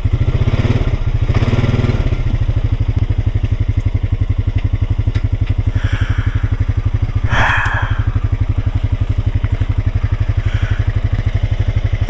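Small off-road vehicle engine idling with an even, steady pulse, swelling briefly in the first couple of seconds, with a short rattle about seven seconds in.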